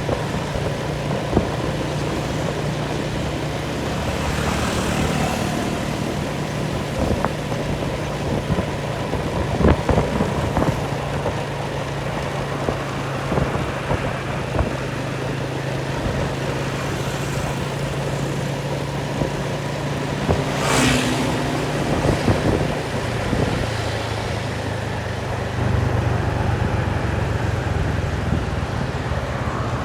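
An engine running steadily with a low, even drone, with scattered short knocks and a brief hiss about 21 seconds in.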